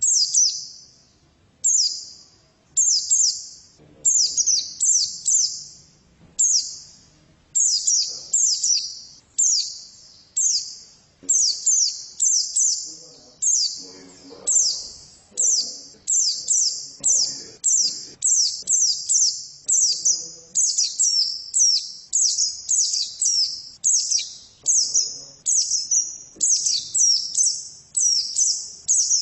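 Female white-eye (pleci) singing: a fast run of high, thin chirping phrases, short and spaced apart at first, then coming almost without pause in the second half.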